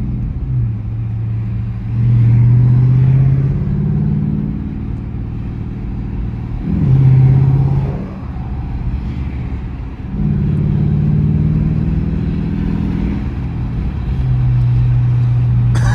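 2020 Dodge Charger R/T's 5.7 L Hemi V8 with its mid mufflers deleted, heard from the driver's seat while driving. The exhaust note swells and falls several times as the throttle comes on and off and the pitch steps between gears.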